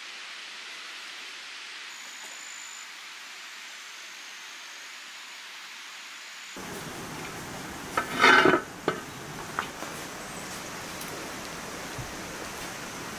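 Steady hiss of light rain. About six and a half seconds in it gives way to a different background, with one loud scrape about eight seconds in and a few lighter knocks after it, from a serving spoon working rice out of a pot.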